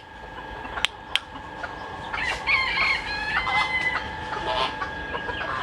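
A rooster crowing once, about two seconds in, over the clucking of chickens.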